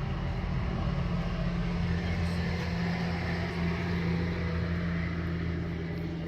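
An engine running steadily, a constant low drone with a hum underneath.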